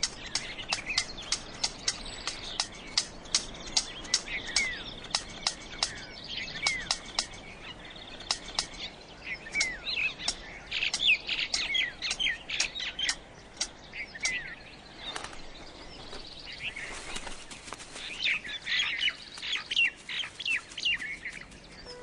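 Birds chirping in short, quick notes over a run of sharp, evenly spaced clicks, about three a second through the first half, with a brief rustle near the middle.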